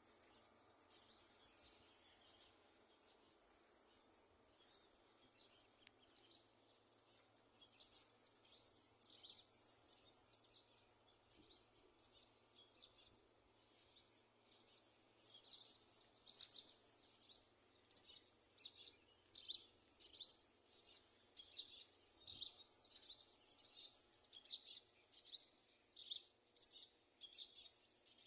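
A flock of small birds chirping and twittering in quick, high-pitched calls, rising into several spells of dense chatter.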